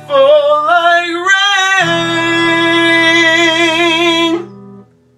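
A solo singer sings the closing words of a worship song and holds a long final note with vibrato over sustained guitar accompaniment. The voice stops about four and a half seconds in and the accompaniment dies away just after.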